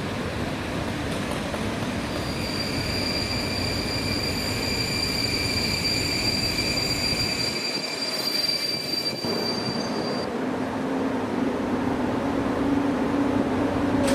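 EP07 electric locomotive and its coaches rolling slowly into a station with a rumbling noise and a high, steady squeal from the wheels. About ten seconds in the squeal stops and a low steady hum from the locomotive comes through.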